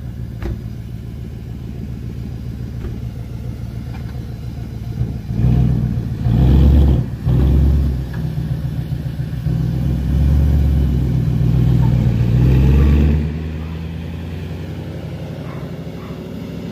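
Audi 4.2-litre V8 on a stage one tune idling, then from about five seconds in revving and accelerating hard in several loud pulls, dropping back to a quieter steady run near the end as the car moves away.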